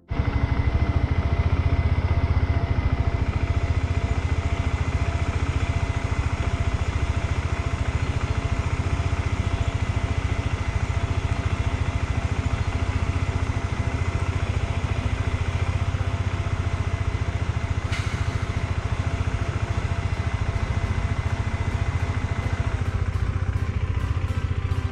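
KTM 390 Adventure's single-cylinder engine running steadily as the motorcycle rides slowly over snow, with one sharp click about eighteen seconds in.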